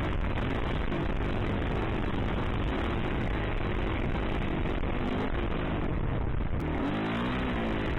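Yamaha YZ450F dirt bike's single-cylinder four-stroke engine running steadily under throttle, its pitch rising and falling several times near the end as the throttle is worked.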